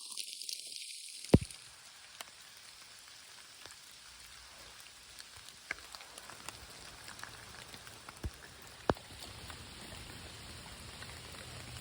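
Steady rain hiss with scattered individual drops ticking sharply close by, the loudest about a second in.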